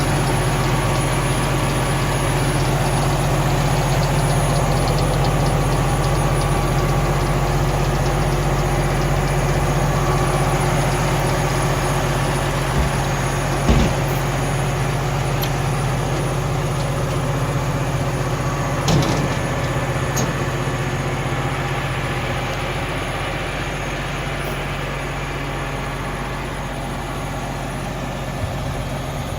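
Heavy truck's Cummins ISX15 diesel engine running steadily, with a few brief knocks about a third and two-thirds of the way through.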